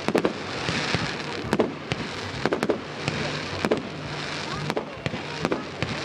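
Fireworks going off in a display: an irregular string of sharp bangs, roughly one or two a second, over a continuous crackling hiss.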